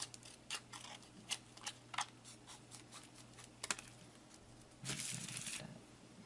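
Scissors trimming tape, with scattered small snips and clicks and one short, louder rasp about five seconds in.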